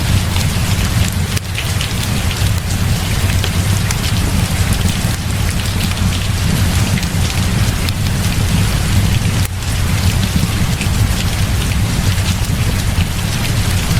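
Heavy rain falling steadily, with a constant low rumble underneath and many fine drop ticks on top.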